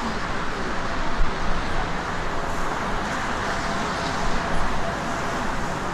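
Jet airliner engines heard as a steady, even rushing noise from an aircraft on the runway or passing overhead.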